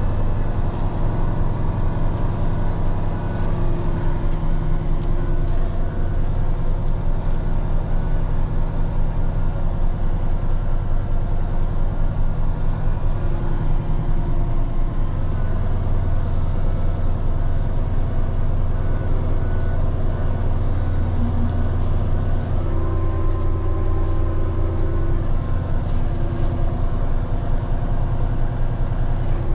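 Diesel engine of a Peterbilt 389X heavy rotator wrecker running steadily as the truck moves slowly. Its low hum grows stronger about halfway through.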